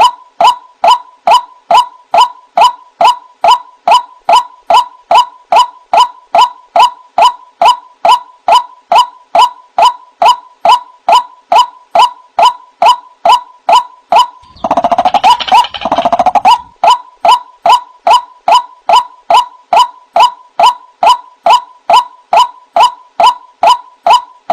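White-breasted waterhen (ruak-ruak) calling in a bird-trapping lure recording: short, clipped notes repeated evenly about two and a half times a second. A little past the middle, a louder, harsher stretch of calling lasts about two seconds before the even notes resume.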